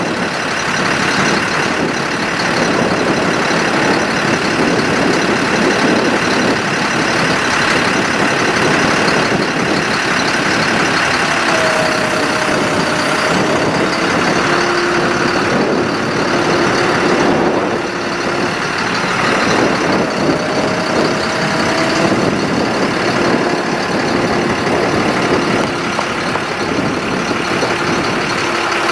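Diesel engine of a Ford F-750 bucket truck running steadily. Faint steady tones come and go over it in the middle and again near the end.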